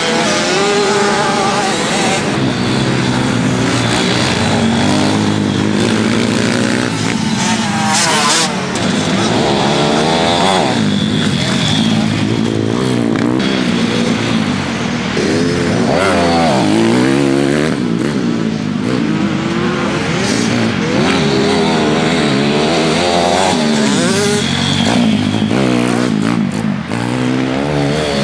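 Pit bike engines, small single-cylinder four-strokes, revving hard while riding, the pitch climbing and dropping again and again with each burst of throttle and gear change.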